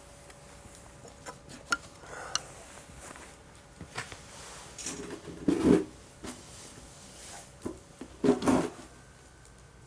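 Wood campfire burning, with scattered sharp crackles and pops. Two louder, lower rushes lasting under half a second come about halfway and near the end.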